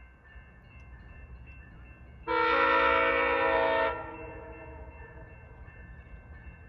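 A VIA Rail train's air horn sounds one long blast of about a second and a half, a chord of several pitches that starts and stops abruptly, over the steady rumble of the moving train.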